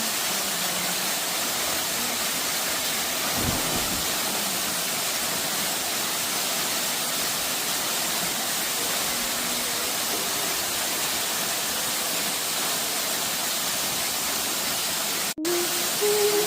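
Waterfall rushing in a steady, even roar of falling water. Music starts abruptly after a brief cut near the end.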